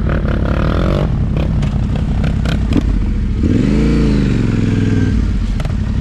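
Motorcycle engine running at a low, steady speed with clicks and rattles, then revved up and back down once about three and a half seconds in.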